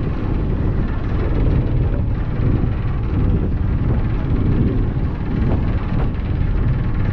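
Steady low rumble of the passenger ferry Thomas Rennie under way, its engines running.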